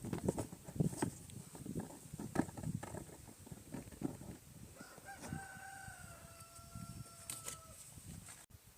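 A rooster crows once in the background: a single long, drawn-out call about five seconds in. It comes over a run of irregular knocks and clattering from work being handled close by.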